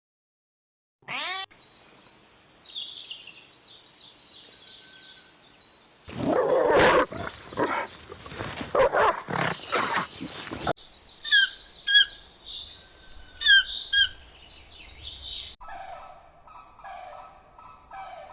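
A run of different animal calls, one after another with abrupt cuts between them. The loudest is a harsh, noisy call in the middle, followed by sharp high chirps and then a steady series of short, repeated calls near the end.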